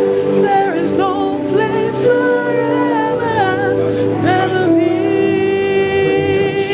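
Gospel worship music: sustained keyboard chords under a voice singing a wavering, ornamented melody, settling into a long held note near the end.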